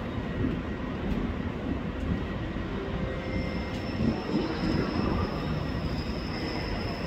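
PKP Intercity electric multiple unit running slowly on the station tracks, a steady low rumble. A thin high wheel squeal comes in about halfway through and holds.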